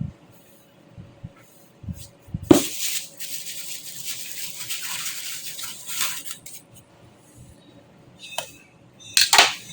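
Handling noise: a sharp knock, then about three and a half seconds of rustling or scraping, then a couple of clicks and a short clatter near the end.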